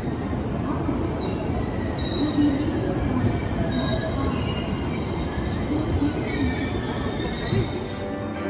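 JR West commuter electric train pulling in along the platform: a steady rolling noise from the cars, with thin high-pitched wheel squeals coming and going above it.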